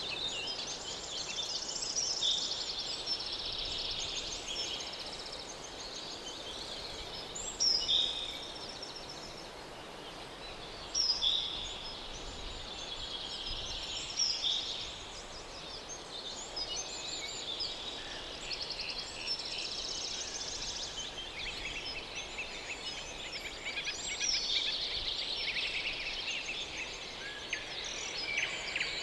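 Birds chirping and trilling, many short overlapping calls throughout, over a faint steady background hiss.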